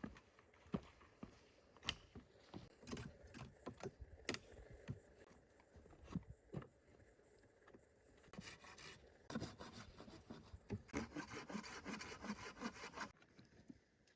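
Quiet hand work with wood: scattered light knocks and clicks, with two longer stretches of rubbing and scraping in the second half.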